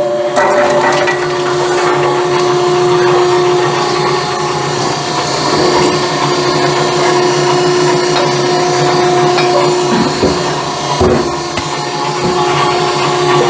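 Split firewood knocking and scraping as it passes through a running firewood separator machine, over a steady motor hum.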